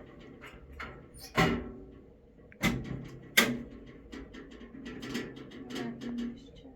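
Three loud knocks, about a second and a half in, near three seconds and shortly after, among lighter clicks and handling noises.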